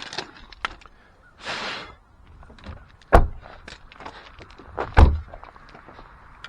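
Handling noise from a garage workbench: small clicks and a rustle, then two loud thunks of something set or knocked down, about a second and three quarters apart.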